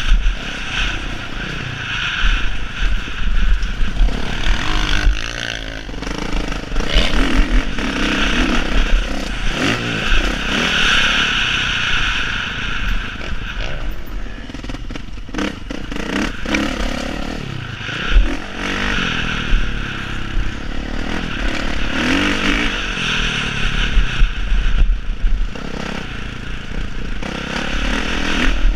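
Motocross bikes' engines revving on the track, their raspy exhaust note rising and falling in pitch and swelling and fading repeatedly.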